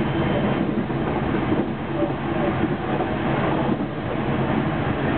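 Running noise of a JR 373 series electric multiple unit heard from inside the carriage: a steady rumble of wheels on the rails with a faint hum from the traction motors.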